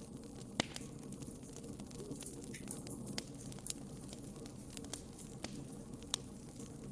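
Wood fire crackling in a fireplace: irregular sharp pops and snaps over a steady low rumble of the flames. The loudest pops come about half a second in and near the end.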